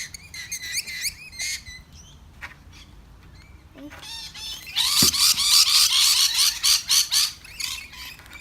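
Lorikeets screeching: scattered short chirps for the first couple of seconds, then a loud burst of rapid, shrill, repeated calls from about five to seven seconds in.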